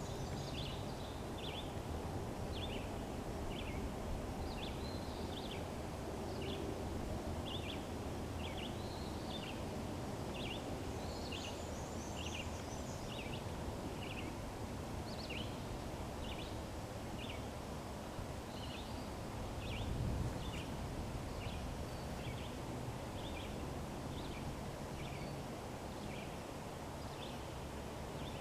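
Birds chirping in short repeated notes, one or two a second, over a steady low outdoor rumble, with a brief louder low swell about twenty seconds in.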